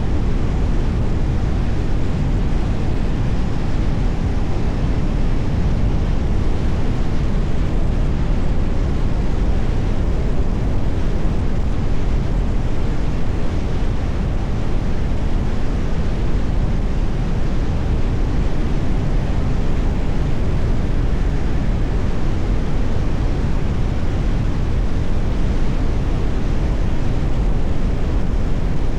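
Steady road and wind noise of a car driving at speed: tyre rumble and wind on the microphone. It holds level throughout, with no horns, knocks or other separate sounds.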